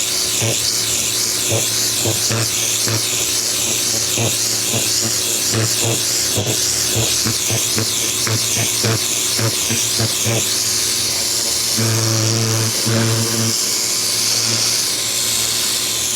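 Ryobi 2000 PSI electric pressure washer at work: its motor-driven pump buzzes in short on-off pulses, with a longer run about twelve seconds in, under the steady hiss of the water spray.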